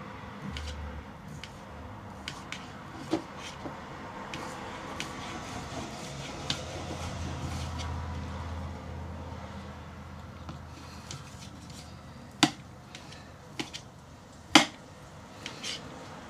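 Scattered light clicks and knocks of kitchen handling over a low steady hum, with two sharper clicks near the end.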